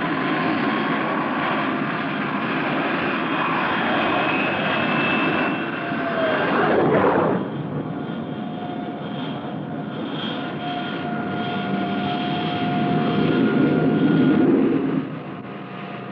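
Aircraft engine running on a carrier flight deck after an arrested landing, a steady engine noise with thin whining tones. It swells about seven seconds in and again near the end, dropping off sharply after each.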